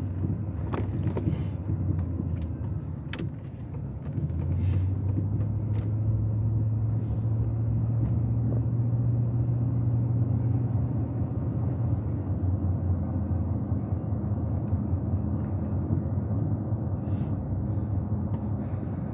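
Vehicle engine and road noise heard inside the cab while driving, a steady low drone. About four seconds in it gets louder and rises a little in pitch as the vehicle speeds up, then settles.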